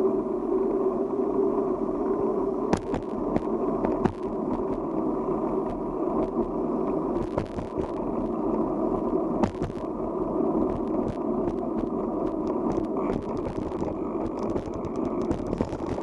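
Steady rolling noise of a bicycle ride, with scattered small clicks and rattles; it cuts off suddenly at the end.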